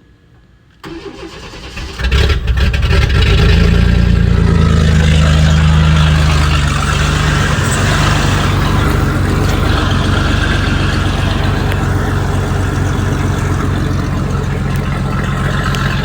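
A truck engine with a distributor ignition, freshly reassembled after head gasket repairs, is started for the first time: the starter cranks for about a second, the engine catches, runs fast for a few seconds, then settles into a steady idle.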